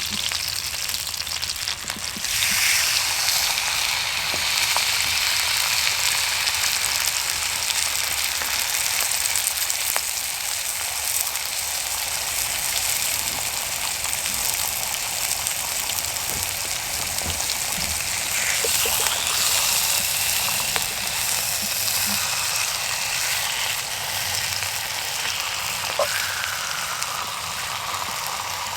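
Food sizzling and frying in a hot pan: a steady, loud hiss that starts suddenly and grows stronger about two seconds in, with a few small clicks and pops.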